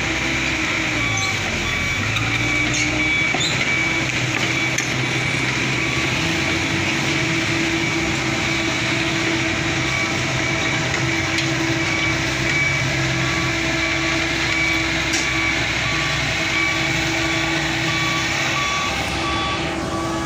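Diesel engine of a heavy vehicle running steadily while its reversing alarm beeps over and over at an even pace.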